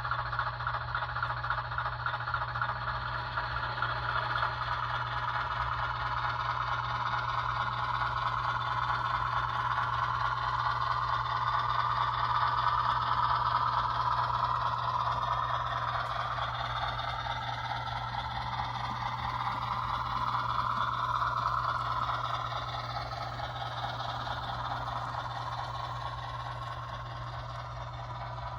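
HO scale model 44-tonner diesel locomotive running along the layout track: a steady motor whine with wheels rattling and clattering on the rails. It grows louder around the middle and fades near the end.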